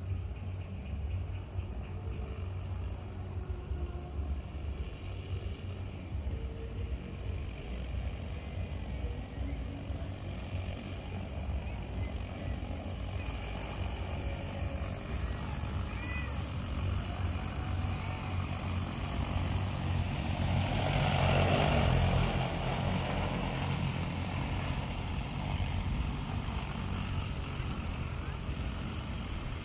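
Crop-spraying aircraft running steadily over a constant low rumble, growing louder as it passes close about 20 to 23 seconds in, then easing off.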